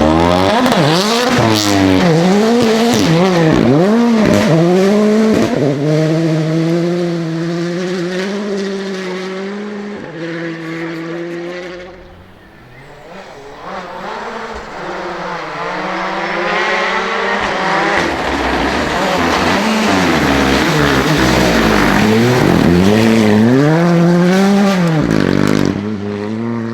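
Rally car engines at full throttle, revs climbing and dropping sharply through gear changes and lifts. The sound fades about halfway through, then a car builds up again and revs hard through more shifts.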